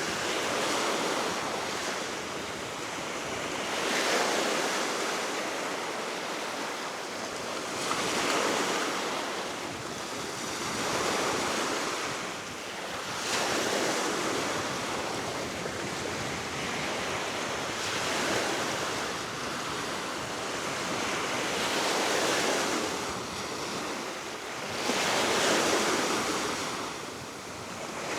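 Baltic Sea waves breaking on the shore below the cliff, swelling and falling back every few seconds, with steady wind blowing across the microphone.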